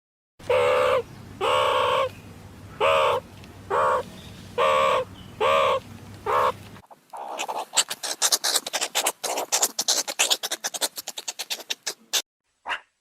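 An animal's call, given seven times at regular intervals, then a long stretch of rapid, high chattering.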